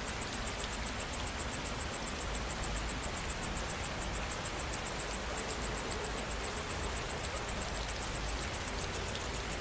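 Steady rain falling, with an insect chirping over it in a rapid, even train of high-pitched pulses, about seven a second.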